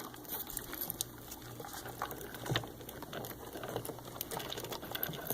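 Hermit crabs moving about in a shallow water bath: faint water sloshing with scattered small clicks and taps.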